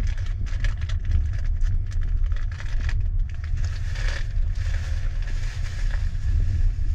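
Double-decker passenger train carriage rolling slowly over the rails, heard from inside: a steady low rumble with irregular knocks and clicks from the wheels.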